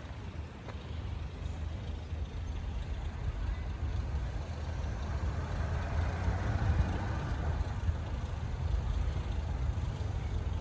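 A vehicle passing by, its noise swelling and easing off around the middle, over a low rumble of wind on the microphone.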